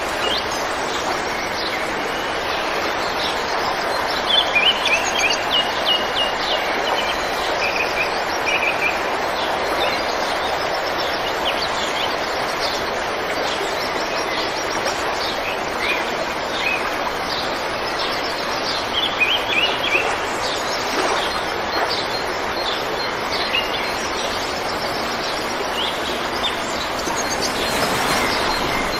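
Small birds chirping in quick repeated bursts over a steady background hiss.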